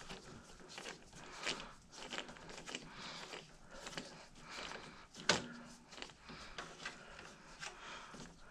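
Hands working on a desktop computer case: irregular small clicks, taps and rustles, with one sharper click a little after five seconds in.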